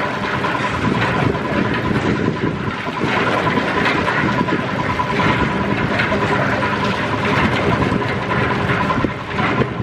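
Machinery running steadily, with a constant thin whine over a dense mechanical rumble.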